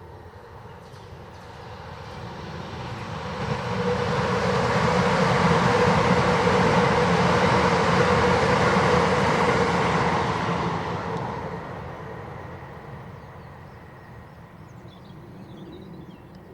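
A vehicle passing by: a steady rushing noise that builds over a couple of seconds, stays loud for about six seconds with a faint steady hum in it, then fades away.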